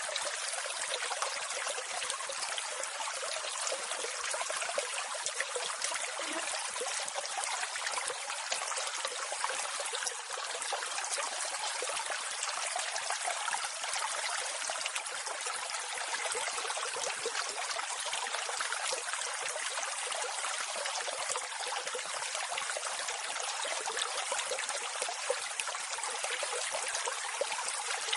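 Waterfall water rushing and splashing in a steady, unbroken hiss.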